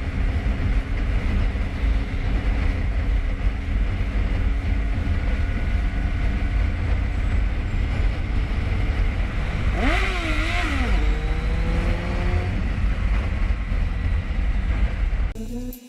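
Steady low rumble of a motor vehicle driving. About ten seconds in comes a brief burst of noise with a wavering tone, followed by tones that rise slowly for a couple of seconds.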